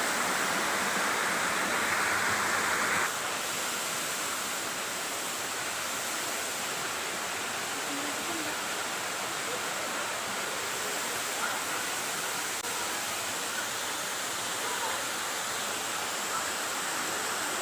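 Steady rush of a waterfall's falling water. It is a little louder for about the first three seconds, then drops slightly and holds even.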